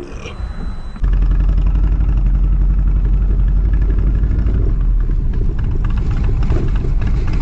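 Motorcycle engine idling with a steady low rumble, cutting in abruptly about a second in.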